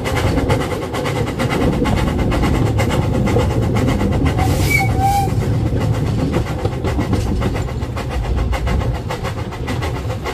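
Narrow gauge train running along the track, heard from on board: a steady rumble with the rhythmic clicking of the wheels over the rail joints. A brief faint squeak comes about halfway through.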